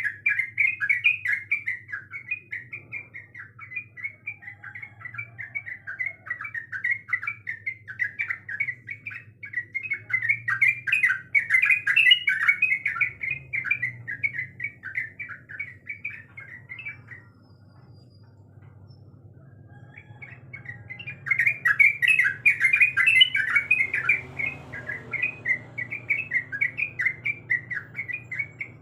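Yellow-vented bulbul (trucukan) singing a rapid, bubbly chattering song. It breaks off for about three seconds in the middle, then resumes.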